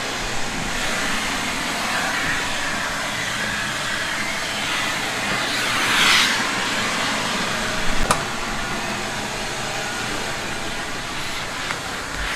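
Vacuum cleaner running steadily as it cleans a truck's interior, a high rushing hiss that swells briefly about six seconds in as the nozzle draws on something. A single sharp click comes about eight seconds in.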